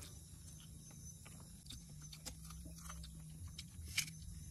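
Quiet eating sounds of rice and chicken gravy eaten by hand: soft chewing and lip smacks with scattered small clicks, over a low hum.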